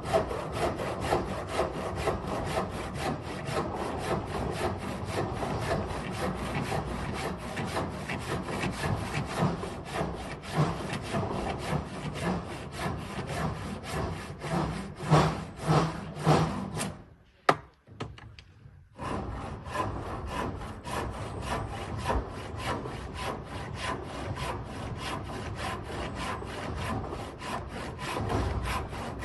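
A hand saw cutting through wood with steady, rapid back-and-forth strokes. The strokes stop for about two seconds about two-thirds of the way through, then start again.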